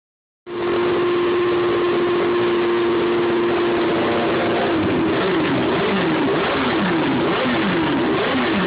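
Custom motorcycle's Kawasaki ZX12R inline-four engine running. It holds a steady pitch at first, then from about five seconds in its pitch swings quickly up and down, over and over.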